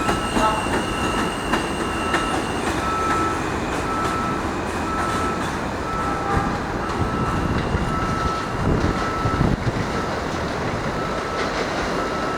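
R160A subway train running along the track: a steady loud rumble with wheel clatter over the rail joints. A short high beep repeats about once a second throughout.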